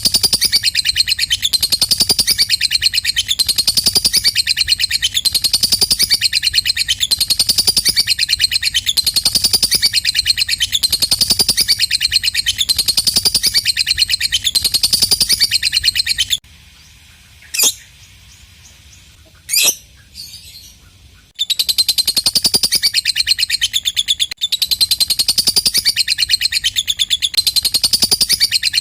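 Lovebird 'ngekek' song: a long, rapid, high chattering trill that repeats in phrases about once a second. Past the middle it stops for about five seconds, leaving only two single sharp chirps, then the chatter starts again.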